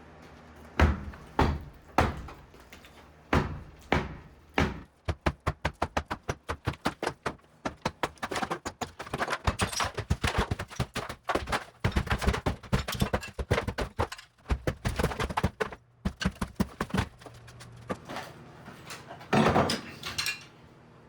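Interior wall demolition: a series of knocks and thuds. There are a few separate blows at first, then a fast run of about three a second for over ten seconds, and a louder crash near the end.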